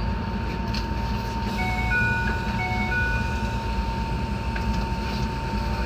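A short electronic two-tone chime, two high-low pairs, over the steady rumble of an electric train and a thin steady whine.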